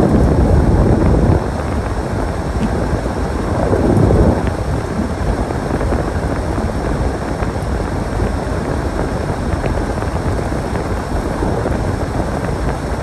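Storm wind rushing and buffeting the microphone, a steady low rumble with two stronger gusts, one right at the start and one about four seconds in.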